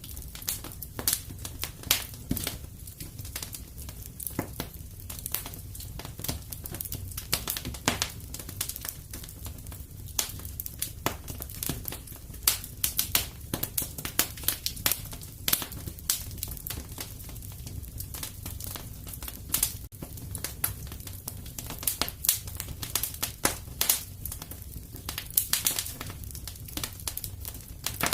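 Fireplace fire crackling, with frequent irregular sharp pops and snaps over a steady low rumble of flames.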